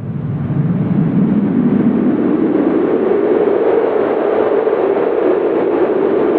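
Howling winter wind, a steady roar with a low howl that rises in pitch over the first couple of seconds and then holds. It swells up at the start.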